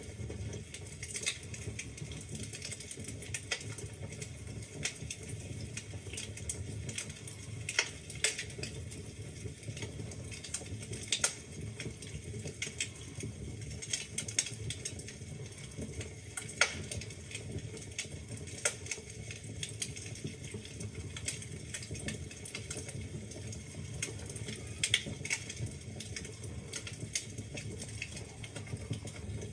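Wood fire burning in a fireplace: a steady low rumble of flames with frequent irregular crackles and occasional louder pops of the logs.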